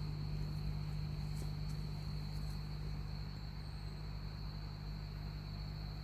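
Insects, such as crickets, trilling steadily in one high pitch over a loud, steady low hum.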